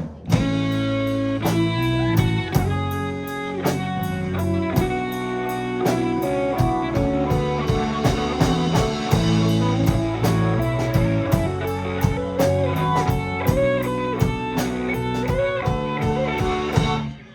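A live rock band plays an instrumental passage: electric guitar with bent notes over bass, keyboards and a steady drum-kit beat, with a brief break right at the end.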